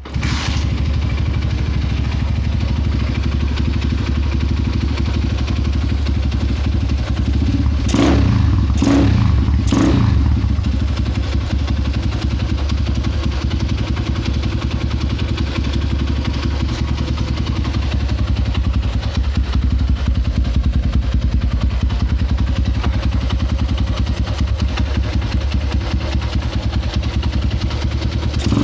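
Honda GL100 single-cylinder four-stroke, stroked to 68 mm, running through a short Corbi aftermarket exhaust: it comes to life right at the start, takes three quick throttle blips around eight to ten seconds in, then idles steadily.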